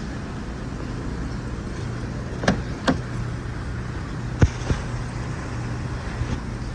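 Car engine, likely the 2014 Impala's 2.5L four-cylinder, idling with a steady low hum, broken by a few sharp clicks: two about two and a half seconds in and two more about four and a half seconds in.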